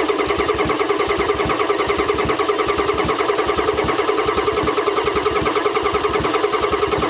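Starter motor cranking the 7.3 IDI V8 diesel of a 1994 Ford F Super Duty, a steady whine over an even chugging of about eight compression pulses a second, without the engine catching. It is being cranked with the injector lines cracked open to bleed air, because the engine has likely lost its fuel prime after years of sitting.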